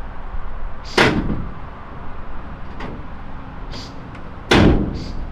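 Two heavy slams about three and a half seconds apart, the second the louder, typical of the doors of a 1970 Chevrolet C10 pickup being shut, over a low steady rumble.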